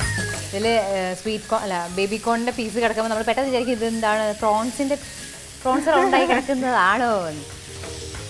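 Tomato, onion and chilli-powder masala sizzling in a nonstick pan while it is stirred with a silicone spatula.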